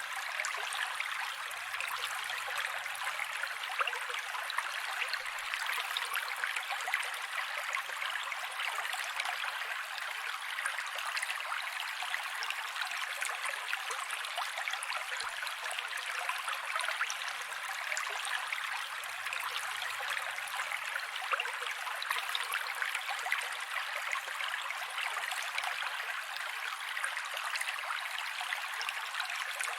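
Mountain creek water flowing steadily over rocks, an even rushing and babbling with almost no bass.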